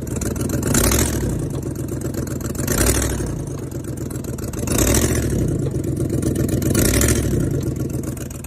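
A vehicle engine running with a heavy, fast clatter, surging louder about every two seconds.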